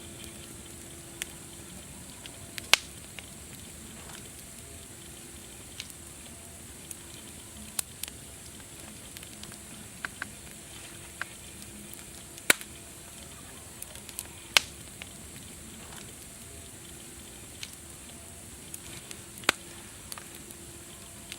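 Wood fire crackling: a steady soft hiss with irregular sharp pops, the loudest about 3, 12, 15 and 19 seconds in.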